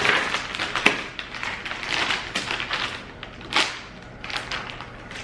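Plastic candy bag crinkling and rustling as it is handled and opened, in irregular bursts with a few sharp clicks; the loudest crackle comes about three and a half seconds in.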